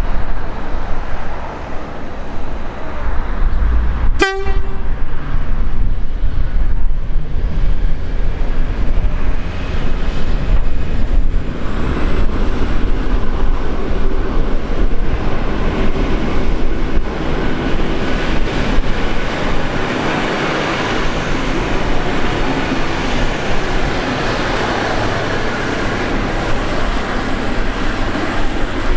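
A train passing close by, with a short horn toot about four seconds in. From about twelve seconds in, a thin high whine sits steadily over the loud rumble of the wheels.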